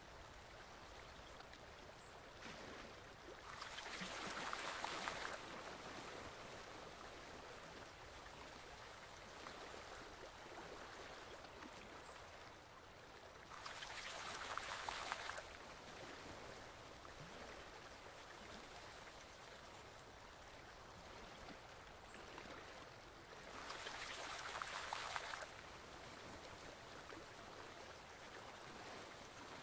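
Forest stream flowing steadily. The water noise swells louder for a couple of seconds three times, about every ten seconds.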